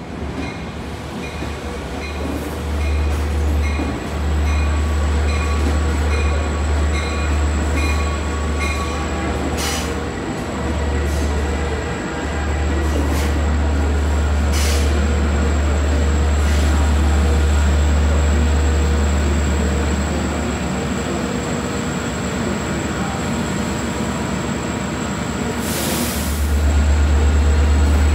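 Long Island Rail Road train hauled by an EMD DM30AC dual-mode locomotive running past, with a heavy low rumble and a steady high whine from the wheels. Short bursts of high hiss come about 10 and 15 seconds in, and a longer one near the end.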